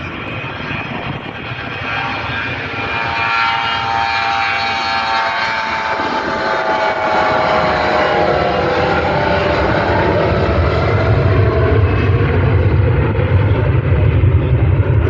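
Jet airliner passing close by: a whine of several tones that slide down in pitch as it goes past, followed by a low engine rumble that grows louder toward the end.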